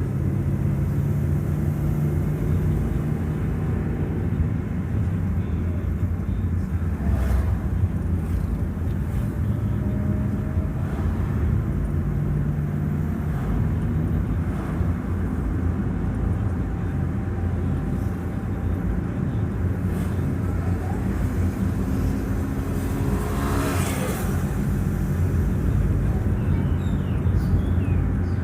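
Steady drone of a vehicle's engine and road noise while driving, with another vehicle passing by briefly late on.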